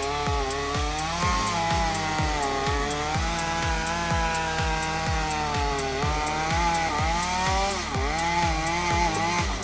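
Chainsaw running and cutting, its engine pitch rising and falling with the load, over background music with a steady drum beat.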